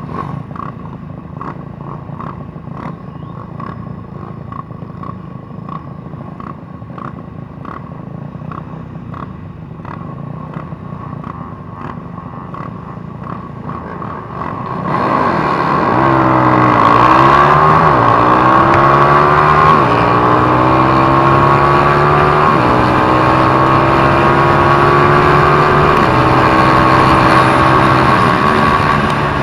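150cc off-road motorcycle engine. For the first half it is a quieter steady hum with faint regular ticking; about halfway in it turns much louder and revs up and down repeatedly as it is ridden.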